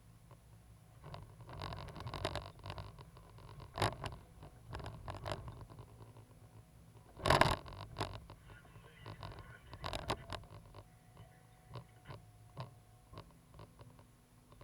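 Cat 320GC excavator's diesel engine running with a steady low rumble, with irregular scrapes and knocks over it, the loudest about seven seconds in.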